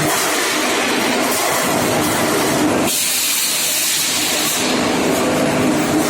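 Factory machinery running with steady mechanical noise; about three seconds in the sound changes suddenly to a loud hiss lasting about a second and a half, then the machine noise returns.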